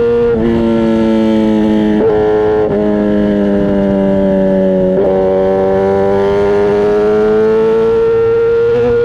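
Kawasaki ZX-10R inline-four engine and exhaust running under way at a steady speed. Its pitch drops in short steps a few times in the first half, then rises slowly under light throttle.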